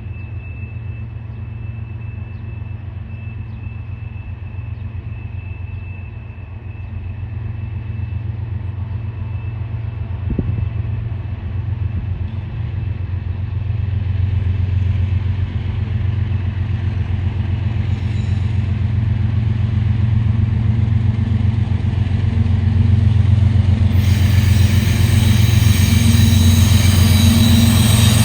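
Approaching diesel train: a steady low engine rumble grows louder. Near the end, hissing wheel-on-rail noise joins in.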